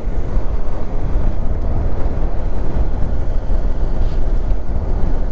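Steady low rumble of a KTM 390 Adventure motorcycle riding along, mixed with wind buffeting the microphone.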